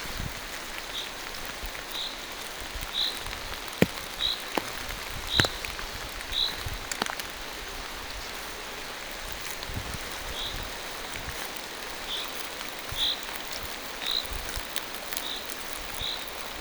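Rain falling steadily through forest trees, an even hiss with a few sharp drips striking close by. A short high tick repeats about once a second, pausing for a few seconds midway.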